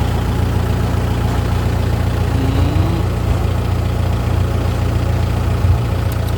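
Kubota M6240 tractor's diesel engine idling steadily through an aftermarket 3-inch exhaust pipe, a low even hum.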